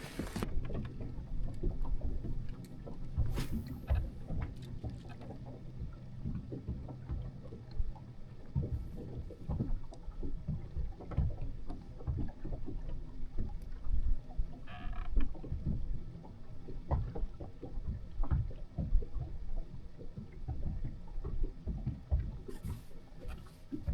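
A bass boat rocking on the water: low, uneven thumps and knocks with a rumble, as water slaps the hull.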